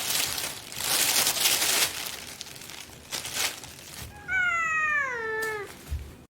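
A domestic cat gives one long meow that falls in pitch, a little over a second long, about four seconds in. Before it there are several bursts of rustling noise, and a low thump follows the meow.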